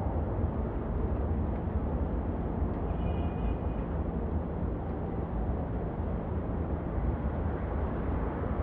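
Steady low rumbling noise with no speech. A faint, brief high tone sounds about three seconds in.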